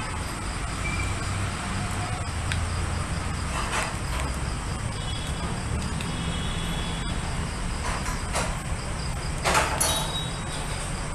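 Outdoor night ambience: crickets chirping in a fast, even high ticking over a steady low rumble of distant traffic, with a few faint horn toots, scattered small clicks and a brief scraping rustle near the end.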